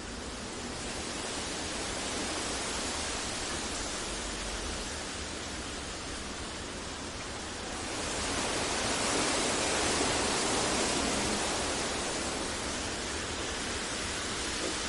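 Steady generated masking noise, an even rushing hiss with no tones or clicks. It swells louder about eight seconds in and eases back slightly toward the end.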